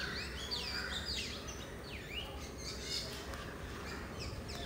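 Birds chirping: a quick run of short, high notes, each sweeping downward, several a second, thinning out after about three seconds.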